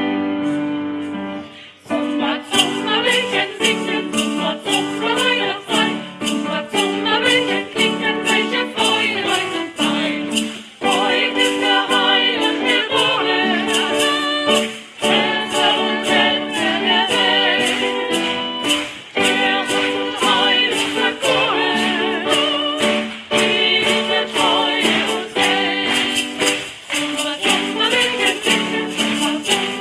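Live performance of a Christmas carol. Singing comes in about two seconds in, after a brief pause in the keyboard accompaniment, and goes on with the keyboard and a steady, quick percussion beat.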